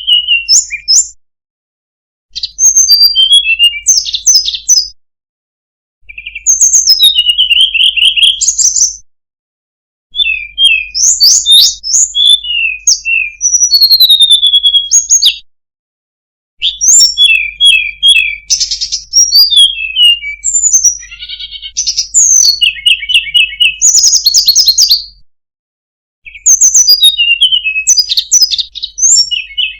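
A songbird singing rapid, varied, high-pitched chirps, whistles and trills. The phrases are several seconds long and break off abruptly into short gaps of silence: an edited masteran recording for teaching caged songbirds their song.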